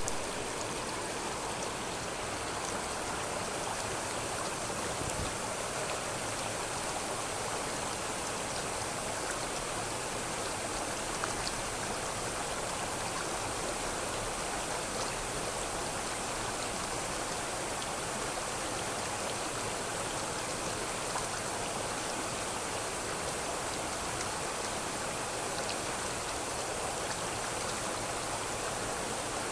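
River water flowing, a steady rushing and babbling with faint splashes and ticks now and then.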